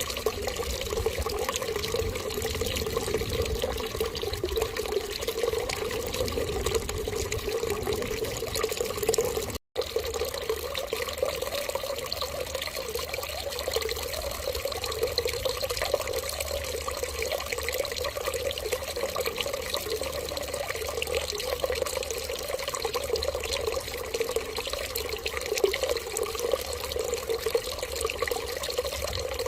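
Running water flowing in a steady, even stream, like a tap left running. It drops out completely for an instant a little before ten seconds in, then carries on unchanged.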